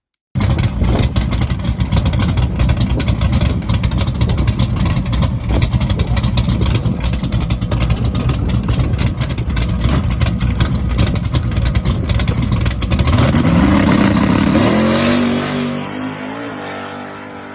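Chevy Nova drag car's engine running loud and choppy, then about thirteen seconds in rising in pitch as the car accelerates away and the sound fades.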